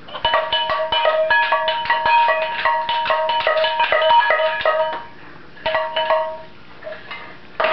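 A musical instrument played by a baby, its notes struck or plucked rapidly and unevenly so they ring over one another: a dense run of about five seconds, then two shorter bursts.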